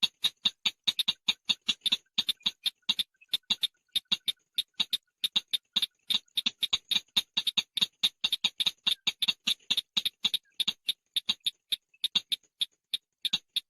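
Long-tailed shrike (chàng nghịch) giving a long run of short, sharp chattering notes, about five or six a second, with a few brief pauses.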